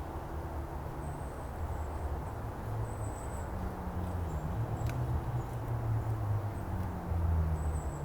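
Quiet outdoor morning ambience: a steady low rumble with a slowly shifting hum underneath, and a few short, faint high-pitched chirps about one second in, around three seconds and near the end.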